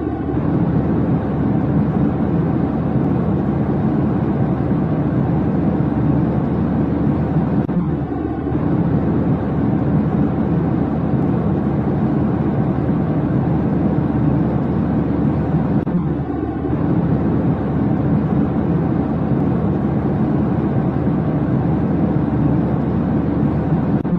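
Steady low drone of running engines, like the cabin noise of an airliner in flight, with a short dip about every eight seconds where the sound loop repeats.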